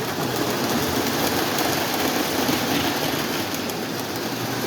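Two Lionel O27 model diesel locomotives running together on toy track, pulling a string of cars: a steady whir and rumble of motors and wheels.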